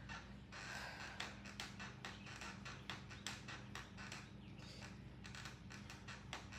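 Stationary exercise bike being pedalled: a steady low hum with frequent light clicks.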